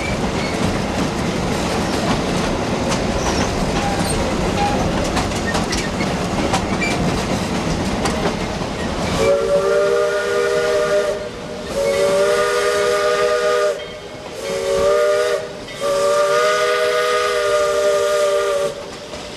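Narrow-gauge train rolling with a steady clatter, then the Shay steam locomotive's whistle blows four blasts, several tones sounding at once: long, long, short, long, the grade-crossing signal.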